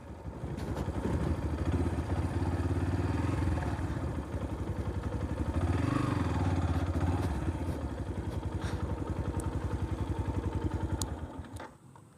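Yamaha FZ-S V3's single-cylinder engine running at low revs with a steady pulsing beat, swelling briefly about halfway, then cutting off near the end as it is switched off.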